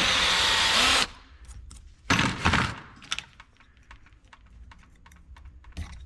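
Electric drill chewing off a steel drive rivet head, stopping about a second in; a short loud burst of noise follows about a second later. Then light scattered clicks and taps of metal being handled.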